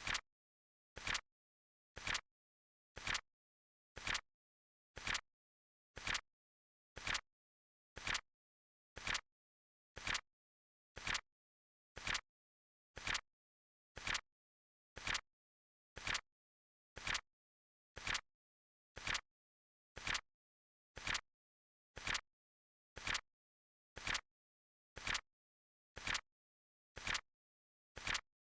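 Flip-clock card flip sound effect: a short double click once a second, evenly spaced like a clock ticking.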